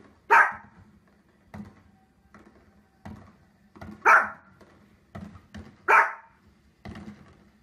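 Small spitz-type dog barking sharply three times, a couple of seconds apart, with fainter short sounds between the barks.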